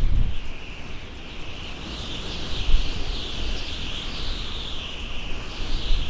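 Outdoor nature ambience: a continuous high, wavering chorus of wild creatures over a low wind rumble that swells briefly at the start and again a little under halfway through.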